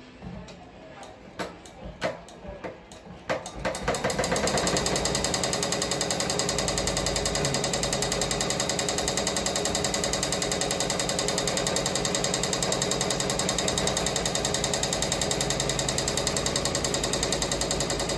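Ricoma MT-1501 multi-needle embroidery machine stitching: a few separate clicks and knocks, then about four seconds in it starts up into a fast, steady, rhythmic clatter.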